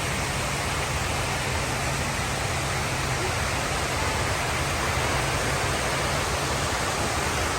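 Water falling steadily down the walls of the 9/11 Memorial's waterfall pools, a constant even rush of noise.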